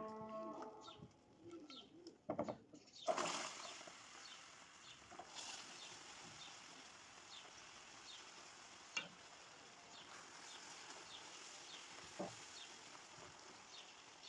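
Background music ends about a second in. Then a bird chirps over and over, about every half second, over a faint hiss, with a few loud knocks near the third second and a sharp click later on.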